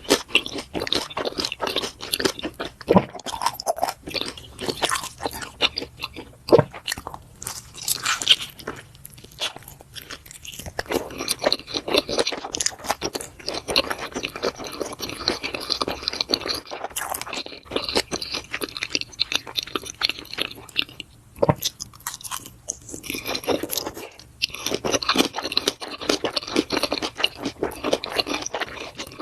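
Close-miked chewing and biting of food, a dense run of quick crunchy and wet clicks and smacks that eases off briefly twice.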